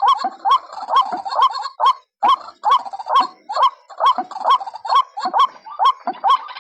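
White-breasted waterhen (ruak-ruak) calls repeated over and over, about two a second, each a short rising call; this is a lure recording used to draw the birds in. The calls break off briefly about two seconds in.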